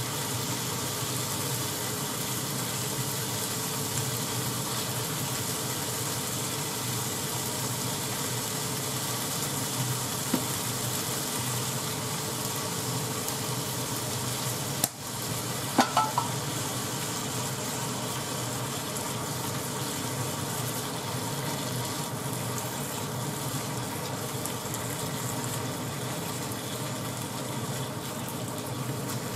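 Sliced pork and onion sizzling steadily in a frying pan while being stirred with chopsticks. About halfway through come a few sharp clicks and a brief squeak.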